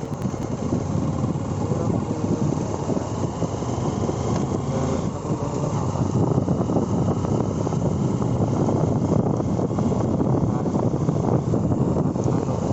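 Motorcycle on the move: steady wind rush on the microphone mixed with engine and road noise, unbroken throughout.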